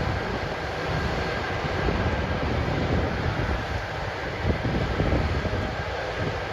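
Harvest machinery running steadily, a continuous mechanical rumble and hiss, with wind buffeting the microphone in uneven low gusts.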